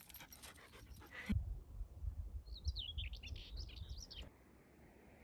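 A small bird chirping in a quick run of high calls over a low wind rumble on the microphone, both cutting off suddenly about four seconds in.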